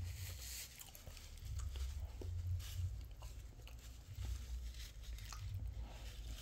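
A person chewing food quietly, with faint small clicks and an uneven low rumble.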